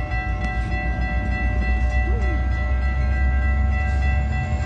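Metra commuter train with a diesel locomotive passing close by. It makes a heavy low rumble that builds through the moment, with a set of steady high-pitched tones held throughout.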